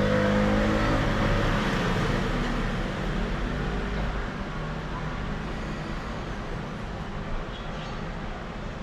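Road traffic: a motor vehicle's engine hum fades away about four seconds in, leaving steady traffic noise.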